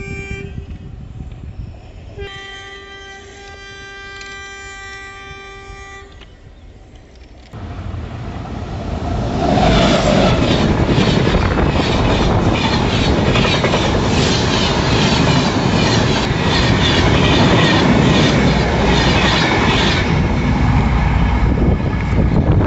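Train horn sounding: a blast that ends about half a second in, then a second steady blast of about four seconds. After that a train comes up and passes close by, loud from about nine seconds in, its wheels clattering in a quick, regular rhythm over the rail.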